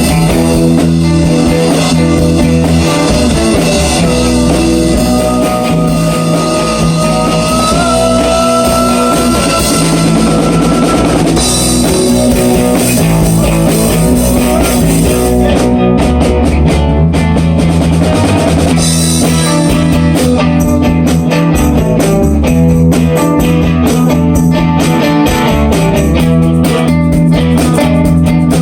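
Rock band jamming instrumentally on a riff: electric guitar over a driving drum kit. From about 4 to 11 s in, a guitar holds one long note.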